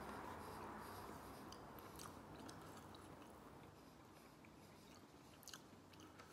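A person quietly chewing a mouthful of breaded chicken breast in béchamel and melted cheddar, with a few faint clicks of the mouth.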